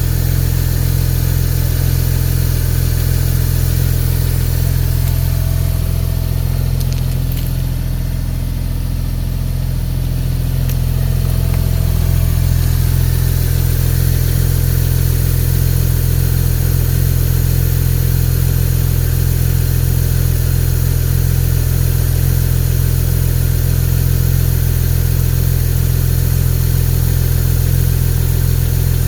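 2010 Porsche 911 Turbo (997) twin-turbo 3.8-litre flat-six idling steadily, dipping a little in loudness for a few seconds near the middle.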